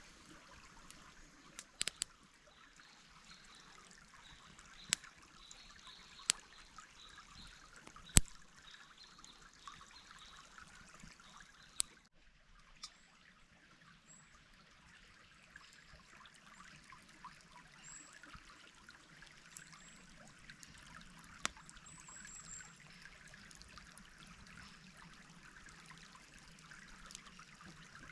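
Shallow stream trickling steadily over stones, with a few sharp single clicks or snaps every few seconds.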